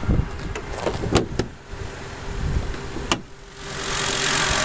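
A few sharp clicks and knocks as the hood is handled, then the Ford Fusion's 3.0-litre V6 idling steadily, coming up plainly about three and a half seconds in as the hood opens over it.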